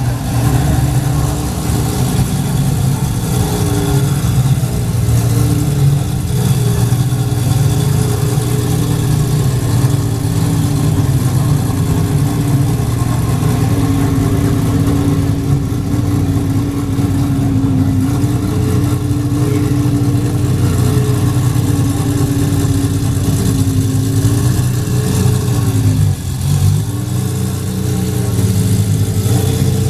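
Ferrari sports car engine with a J-WOLF aftermarket exhaust running steadily at a fast idle. Its note wavers slightly with small throttle changes, most clearly near the end.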